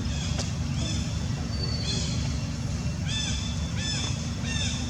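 Short, high-pitched animal calls, about five in all, each rising and then falling, over a steady low rumble.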